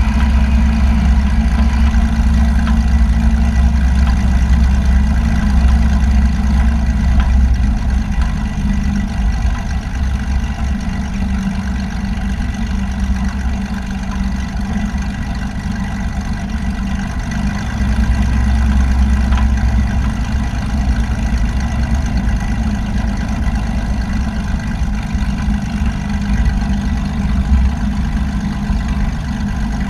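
Light aircraft's piston engine running steadily at low power, with a deep, loud drone. The engine note drops a little about eight seconds in and rises again about eighteen seconds in.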